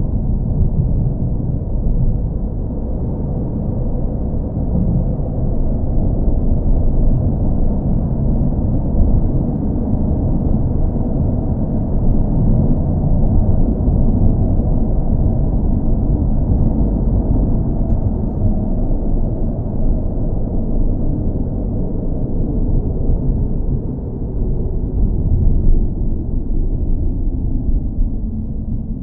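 Car engine running steadily: a continuous, even low rumble with no changes in pitch.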